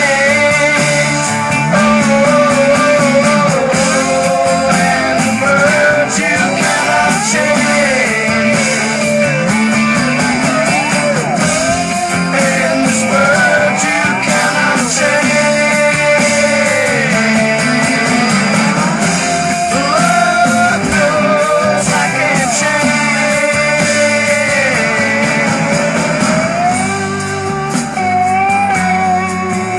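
Rock music with guitar and a singing voice, with bending, gliding notes over steady accompaniment.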